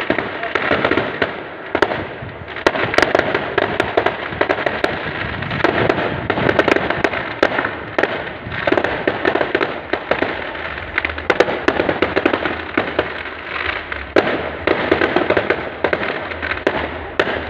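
Fireworks going off continuously: a dense, unbroken run of crackling pops and sharper bangs.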